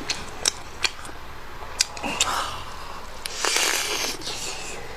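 Close-miked eating sounds: a few sharp mouth clicks and smacks while chewing, with a short rustling burst about three and a half seconds in.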